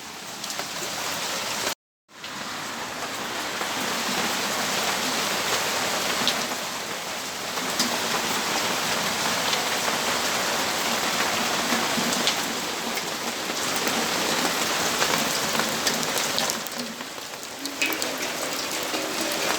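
Steady rainfall: an even hiss of rain with scattered drops ticking on surfaces. The sound cuts out completely for a moment about two seconds in.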